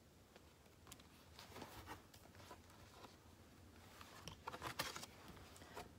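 Near silence in a small room, broken by a few faint rustles and light taps of a picture book being handled.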